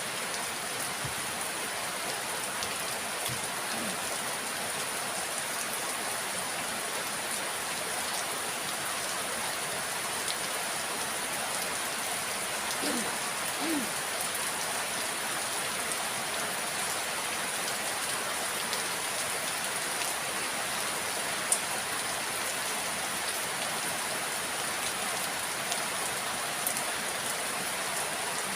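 Steady rain falling and pattering on surfaces, an even hiss, with now and then a single sharper drip tick.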